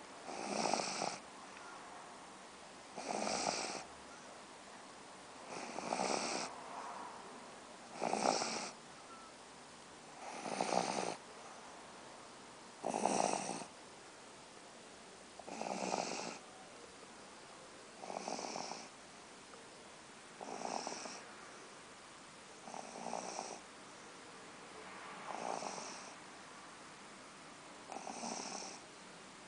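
Pug snoring while asleep: about a dozen snores in a steady rhythm, one roughly every two and a half seconds, each lasting about a second.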